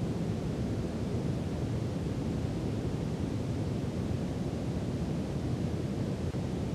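Steady brown noise: an even, deep rumbling hiss with no change or events, heaviest in the low end.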